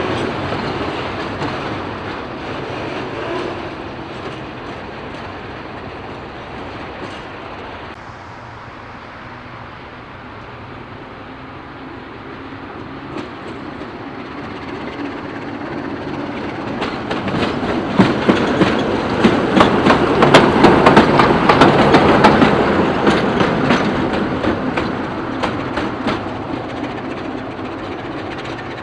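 Freight train wagons rolling past, wheels clacking over the rail joints. The rolling eases off about a third in, then builds to a loud run of rapid clacks about two-thirds through and fades again.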